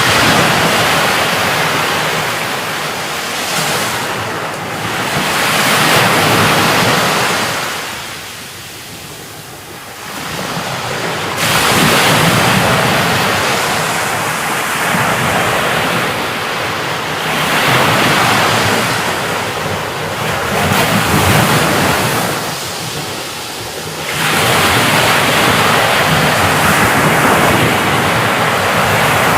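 Steady heavy rain, a dense hiss that swells and eases in gusts, dropping noticeably quieter about a third of the way in before building up again.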